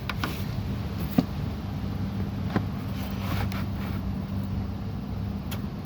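A handful of sharp, scattered clicks and knocks of a wrench being handled on metal over a steady low hum.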